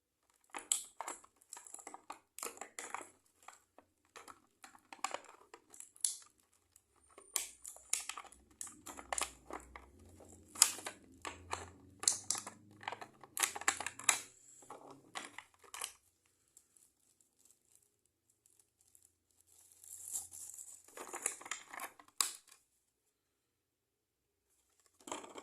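Plastic packaging crinkling and rustling with small clicks and taps as a boxed set of wireless earphones and its accessories are unpacked by hand, stopping for a few seconds about two-thirds of the way through, then resuming briefly.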